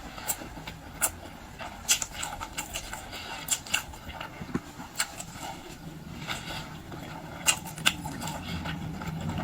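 Close-miked eating sounds of seafood: chewing and mouth smacks with sharp, irregular clicks and cracks. A low steady hum comes in about two-thirds of the way through.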